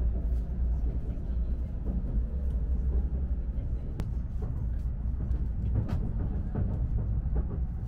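Steady low rumble of a Shinkansen Nozomi bullet train running at speed, heard inside the passenger cabin, with a few faint clicks.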